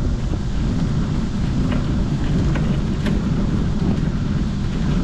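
Wind buffeting the microphone during a bike ride: a loud, steady low rumble, with a few faint ticks.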